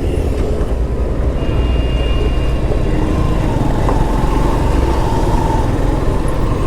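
A motorcycle running steadily on the open road, with a loud, even rush of wind buffeting the microphone.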